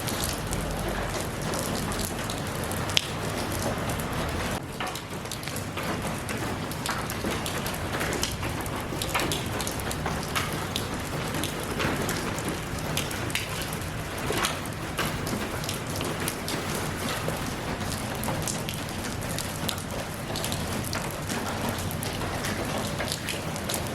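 Steady rain, with many separate drops striking close by as short taps through the patter, and one sharper tap about three seconds in.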